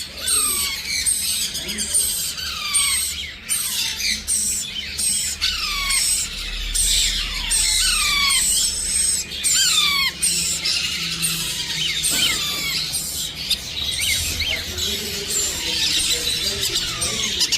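Many small pet parrots chirping and squawking together. One repeats a falling squeal about once a second for roughly the first ten seconds, then the chatter becomes denser.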